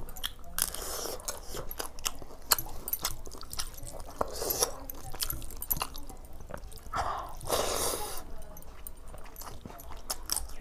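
Close-up chewing and crunching of food, among it fried prawns, with soft wet sounds of rice being mixed by hand.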